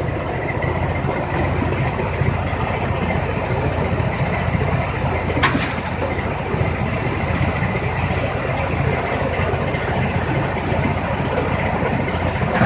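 Tractor-driven mini rice mill running steadily: the tractor engine's low hum under the mill's even, dense noise, with one sharp click about five and a half seconds in.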